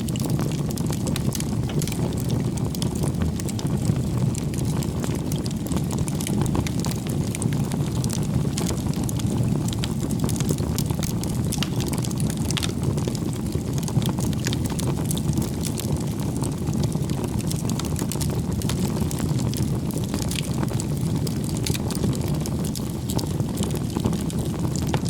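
Bonfire burning: a steady low roar of flames with frequent small crackles and pops throughout.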